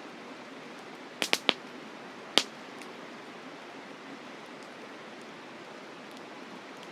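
Burning firewood in a campfire popping: three quick sharp cracks a little over a second in, then one louder crack about a second later, over a steady rushing hiss.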